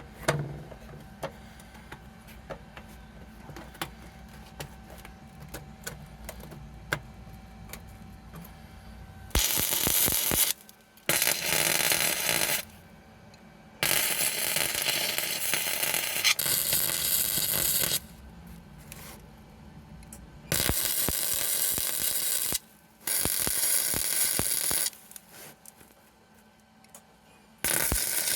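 MIG welder laying short stitch welds on thin sheet-metal patch pieces: a crackling hiss in about seven bursts of one to four seconds each, starting about nine seconds in. Before the welding there are light clicks and taps of handling.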